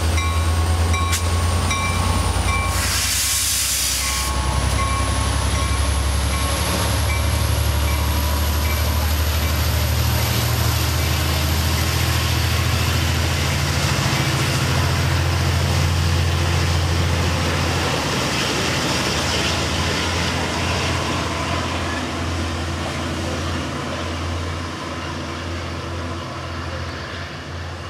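Metrolink diesel-hauled commuter train pulling past at close range: a steady low locomotive engine drone with a thin high whine that slowly rises in pitch, and a short hiss of air about three seconds in. The sound eases off gradually as the bi-level coaches and cab car go by.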